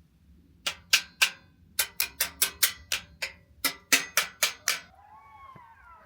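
About fourteen sharp knocks with a brief ringing after each, in an uneven run, followed about five seconds in by a pack of jackals starting to howl, wavering high calls that rise and fall.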